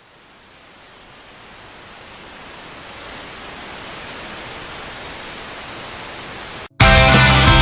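A steady hiss of noise that slowly swells louder, breaks off abruptly near the end, and then loud, distorted rock music with guitars and drums kicks in.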